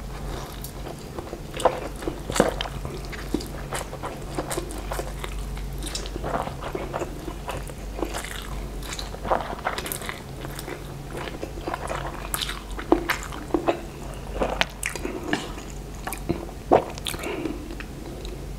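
A person eating fried instant noodles: chewing mouthfuls with many irregular wet smacks and small clicks.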